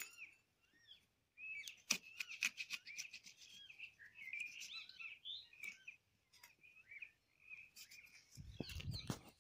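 Birds chirping and twittering, with crisp clicks of a knife paring the rind off a watermelon, and a brief low rumble near the end.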